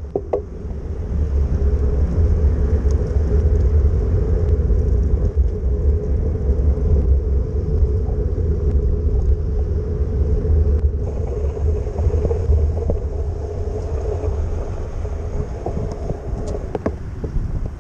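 Wind buffeting the microphone during a bicycle ride, a steady low rumble, with a steady road hum underneath and a few light clicks near the start and near the end.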